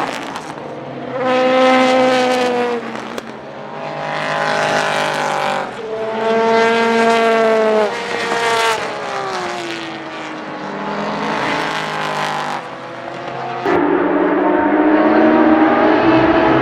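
Porsche 911 race car's flat-six engine at full throttle on track, its pitch climbing in several sweeps broken by gear changes, then falling away as the car slows. Near the end a louder, rougher engine sound sets in suddenly.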